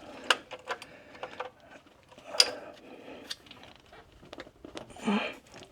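A socket wrench on a 14 mm oil drain plug: a run of sharp metal clicks and clinks as the tool is fitted and worked. The plug is stuck and does not break loose.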